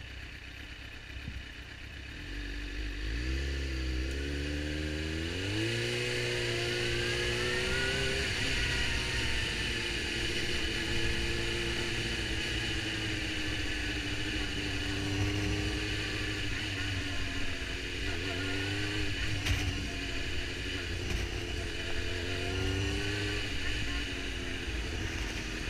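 Suzuki GSX-R750 inline-four engine idling at a stop, then pulling away and revving up through the first few gears in short rising steps, then cruising at a steady speed. Wind rushes over the helmet-mounted microphone.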